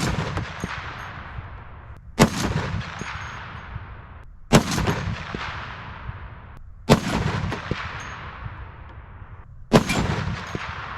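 Barrett M82A1 semi-automatic .50 BMG rifle firing five shots, about two to two and a half seconds apart. Each loud crack is followed by a long rolling echo.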